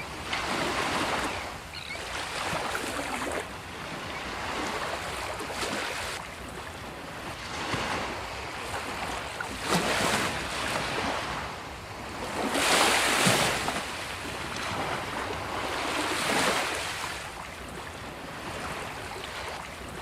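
Sea waves breaking and washing up a beach, the surf swelling and fading every few seconds, with one louder break about two-thirds of the way through.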